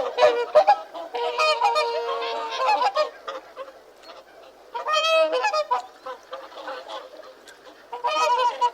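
Geese honking: repeated honk calls in bouts, with short pauses between.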